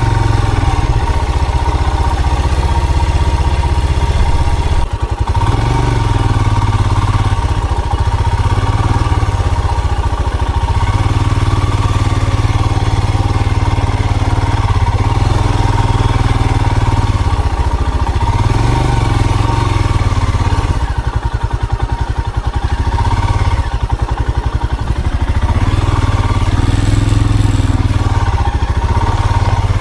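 Vehicle engine running under way, its note rising and falling as the speed changes, with a steady high-pitched whine throughout.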